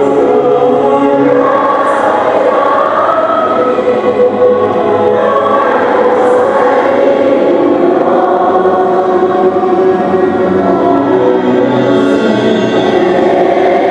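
Choir singing sustained notes as a music soundtrack, many voices blending.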